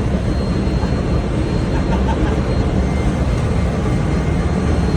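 Steady, loud low rumble and rush aboard a ship at sea, with a faint high steady whine above it.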